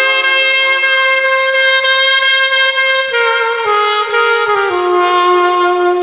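Alto saxophone playing a slow ballad melody: a long held note for about three seconds, then a stepwise falling line of shorter notes.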